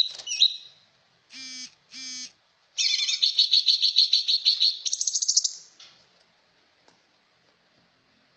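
Trucak ijo songbird singing: a short high note, two short buzzy notes, then a long fast rattling trill of about three seconds that steps up in pitch near its end.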